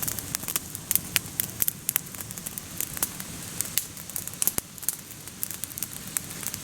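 Small wood campfire crackling, with irregular sharp pops and snaps over a steady low hiss of burning.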